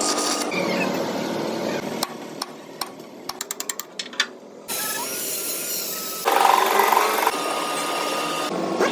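Workshop tool noise: a run of quick sharp clicks and taps, then steady noisy stretches from a power tool, loudest for about a second near the two-thirds mark.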